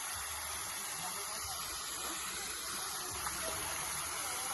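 Waterfall rushing steadily: an even roar of falling water.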